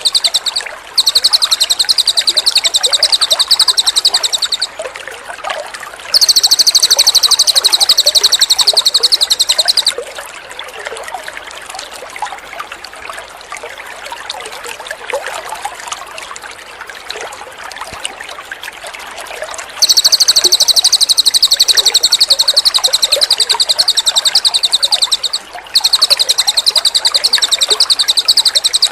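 Cililin bird singing in long, very rapid high-pitched trills, each bout lasting several seconds. There are five bouts, with a long gap in the middle. Between bouts, water trickles softly.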